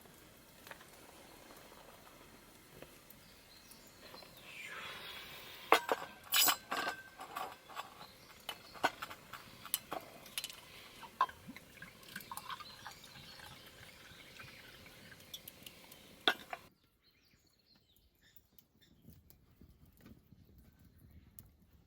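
Tableware clinking and knocking, a string of sharp clinks over about ten seconds, which stops abruptly.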